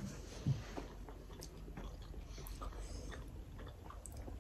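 Quiet chewing and mouth sounds of people eating mutton momos and soup, with scattered small clicks and one short, stronger mouth sound about half a second in.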